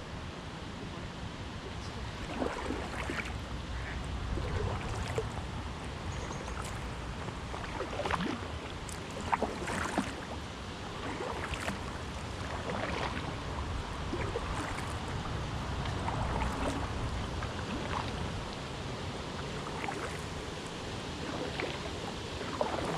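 Kayak paddles dipping and splashing in the water in an irregular run of strokes, with water sounds and a low rumble underneath.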